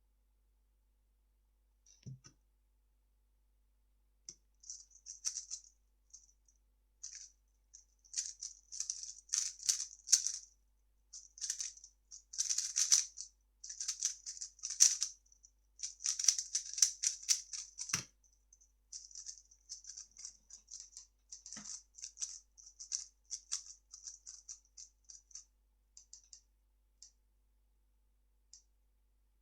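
3x3 speedcube being turned fast, its plastic layers clicking and rattling in rapid bursts. A few dull thuds come from the cube or timer being handled, one of them loud, about two-thirds of the way in.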